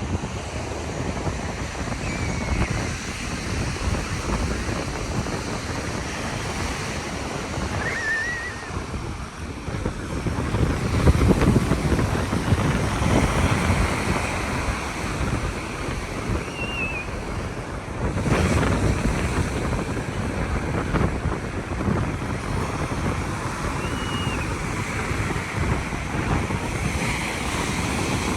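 Ocean surf breaking and washing up the beach, with wind buffeting the microphone. The waves surge louder about eleven seconds in and again about eighteen seconds in, and a few faint short high chirps come through now and then.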